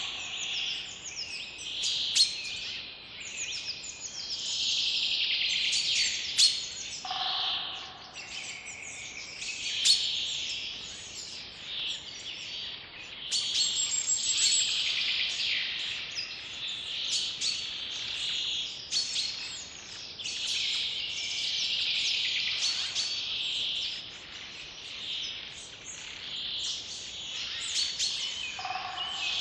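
Several birds singing at once in a dense chorus: a continual stream of quick, high, overlapping chirps and calls that swells and eases.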